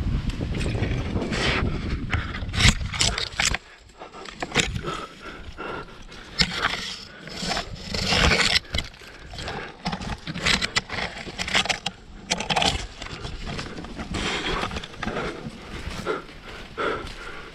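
Climbing sounds close to the microphone: irregular scrapes and sharp clicks of shoes, hands and gear against rock. A low rumble, like wind or handling on the microphone, runs for the first few seconds.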